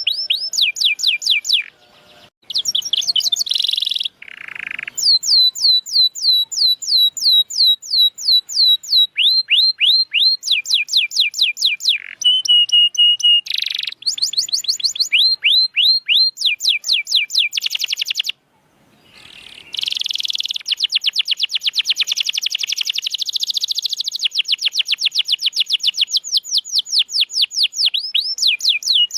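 Domestic canary singing: fast trills of repeated, falling whistled notes that switch to a new phrase every second or two, with a held steady note near the middle and short breaks about two seconds in and just past halfway.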